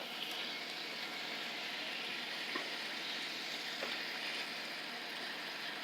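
Raw chicken fat sizzling steadily in hot oil in a pan, just dropped in to render, with a couple of faint pops.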